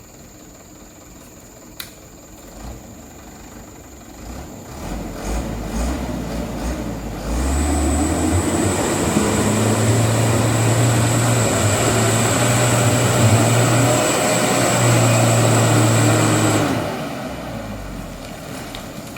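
Mitsubishi Canter HD truck's diesel engine revving up hard under heavy load in mud, holding high revs for about nine seconds with a high whistle over the engine note, then easing back off.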